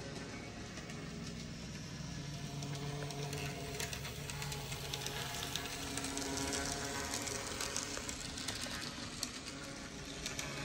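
N scale model train running on a small layout: a steady small-motor hum from the locomotive, with scattered light clicks of wheels on the track.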